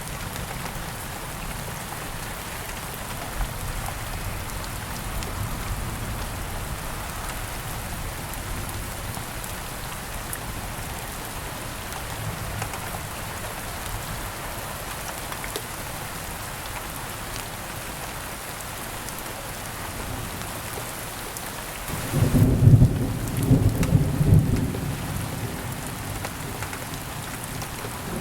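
Steady rain hissing, with a roll of thunder about 22 seconds in: a low rumble in several swells lasting about three seconds, the loudest sound of the stretch.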